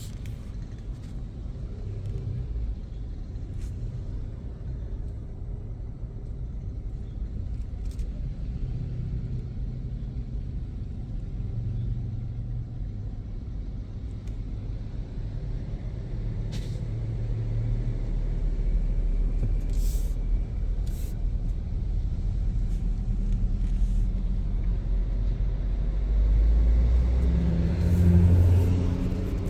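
Truck engines running in a steady low rumble that grows louder and is loudest near the end, with two short hisses about twenty seconds in.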